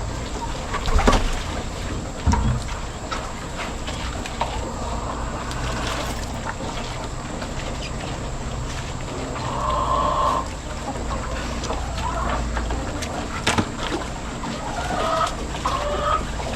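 Farm animal calls, short pitched calls that come a few times, heard among scattered knocks and rustling from work in an animal pen.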